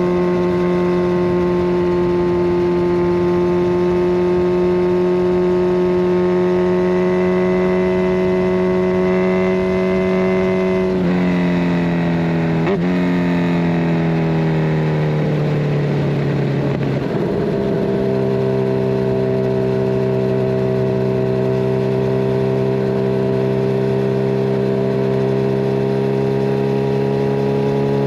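Kawasaki Ninja 1000SX inline-four with a de-cat pipe and Scorpion Red Power exhaust, running at steady revs. Around the middle the revs fall away over several seconds, then the engine holds steady at a lower note.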